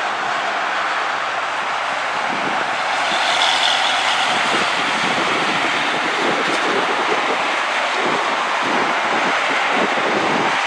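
Steady rush of highway traffic: tyres and engines of passing cars and trucks, swelling briefly about three seconds in as a vehicle goes by.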